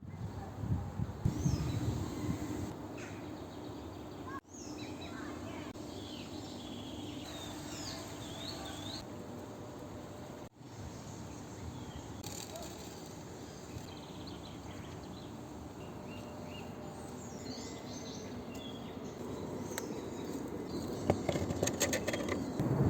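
Outdoor nature ambience: small birds chirping and calling in short high notes over a steady background hiss, with a low rumble near the start and a few clicks near the end. The sound cuts out abruptly twice, briefly.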